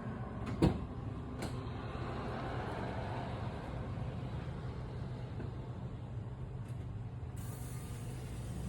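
A single sharp click about half a second in, then a few fainter clicks over a steady low rumble.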